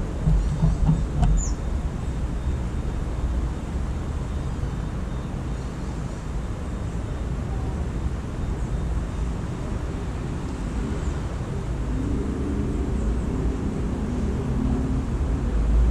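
Steady low rumble of distant city traffic, with an engine hum rising near the end. A few faint, brief high bird chirps come through, one falling chirp about a second and a half in.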